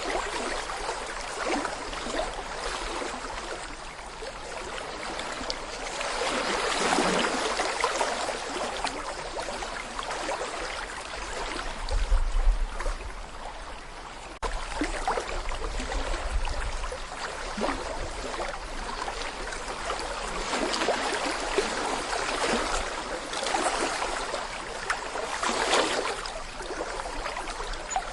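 Small brook babbling and gurgling as shallow water runs over stones, a steady splashy rush that swells and eases every few seconds. About twelve seconds in, a low rumble comes in for about five seconds and gives the loudest moment.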